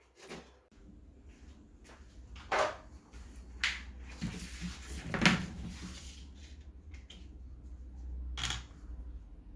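A handful of separate knocks and clunks, the loudest about halfway through, over a low steady hum that starts just under a second in.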